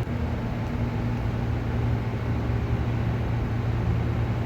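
Steady low engine hum, holding one pitch without revving.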